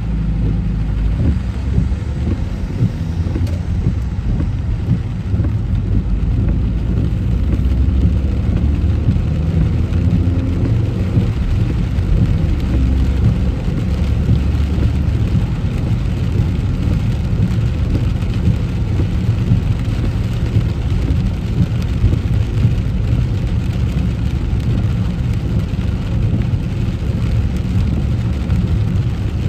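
Car driving on wet roads in rain: a steady low rumble of engine and tyres, with an even hiss of rain and spray over it.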